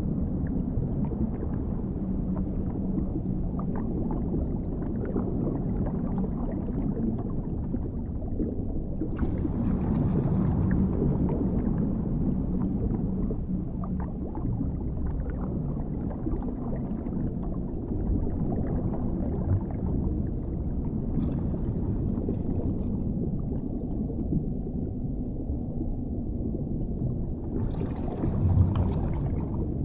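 Underwater ambience: a deep, muffled water rumble, with two brief brighter swells, about nine seconds in and near the end.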